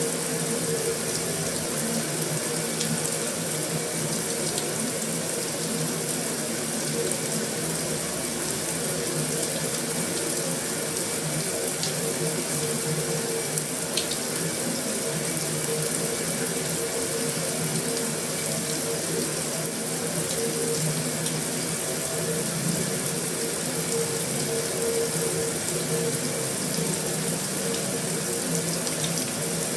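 Heavy rain drumming steadily on a metal roof, a dense even hiss with a few sharper drop taps standing out.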